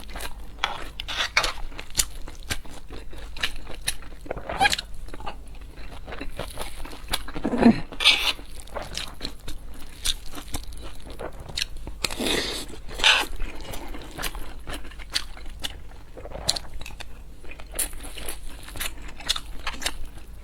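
Close-miked eating: a person biting and chewing crunchy food, with many small crackles and clicks of chewing and a few louder bites about 4.5, 8 and 13 seconds in.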